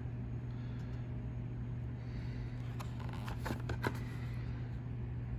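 Steady low hum of room noise, with a few faint clicks and taps about three to four seconds in, from handling a carded die-cast toy car's plastic packaging.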